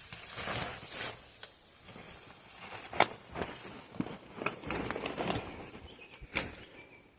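Footsteps crunching and rustling through dry leaves, twigs and undergrowth, irregular and uneven, with one sharp crack about three seconds in.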